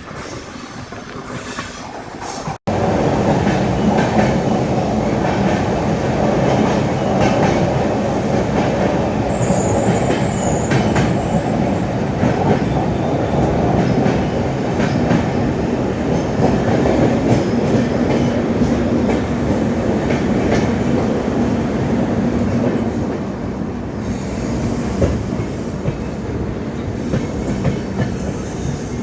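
Swaraj Express passenger train running on the track, a steady loud rumble of wheels and coaches. An abrupt cut about two and a half seconds in makes it suddenly louder.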